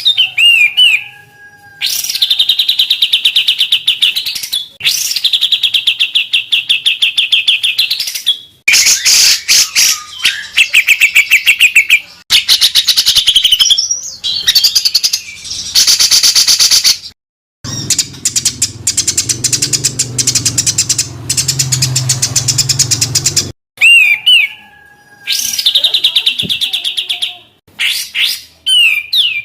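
Recorded songbirds singing rapid, harsh trills of fast-repeated high notes, in short clips spliced one after another with abrupt cuts and brief gaps. It is a bird-song training track of 'tembakan rapat dan kasar' (dense, harsh rapid-fire phrases). One clip carries a low hum beneath the song.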